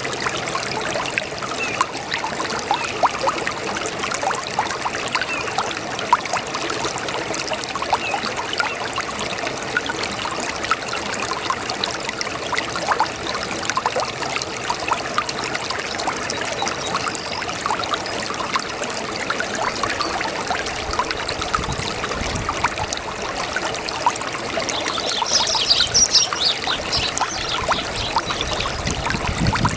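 Small brook babbling and trickling steadily, with many small splashes and drips over the water noise. A brief high chirping sound comes near the end.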